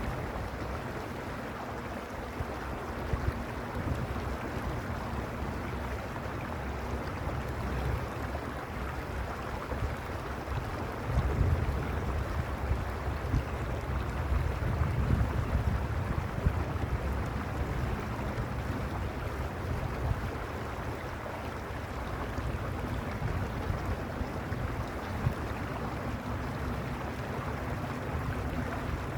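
Mountain stream rushing steadily over its bed, a constant rush of water. A low rumble of wind on the microphone comes and goes and is strongest in the middle.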